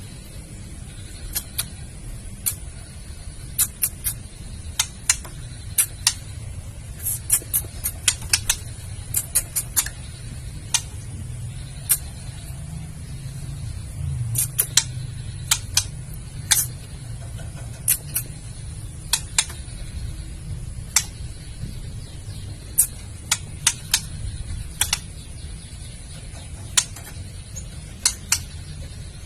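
Female white-rumped shama giving its harsh clicking 'kretekan' call: sharp, dry clicks at irregular intervals, some single and some in quick runs of two to four, over a steady low background rumble.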